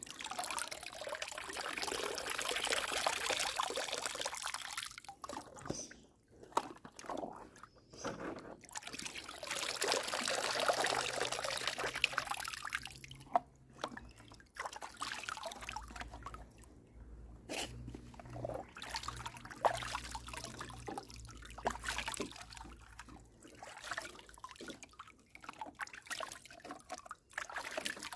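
Water pouring and trickling in two long spells, with quieter drips and splashes in between.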